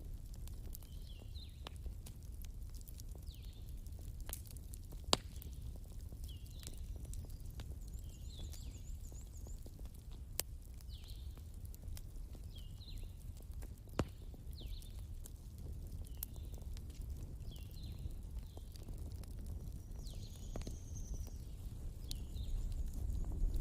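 Wood fire crackling, with a few sharp pops, over a steady low rumble of flowing river water. Short, high animal chirps repeat about once a second.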